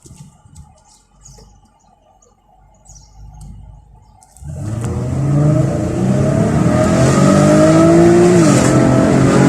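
Ford Mustang engine accelerating hard from about halfway in, its pitch climbing steadily and dipping briefly near the end, as at a gear change. Before that, only faint low sound.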